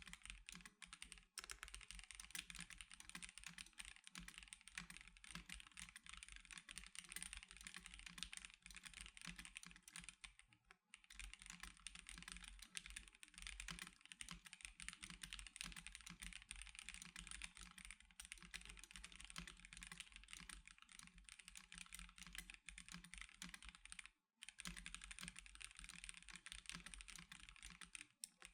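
Continuous fast typing on an Ikki Aurora R2 custom mechanical keyboard with C³Equalz x TKC Banana Split linear switches and DSA After-school 1992 keycaps, the keystrokes running together into a steady clatter with a few brief pauses.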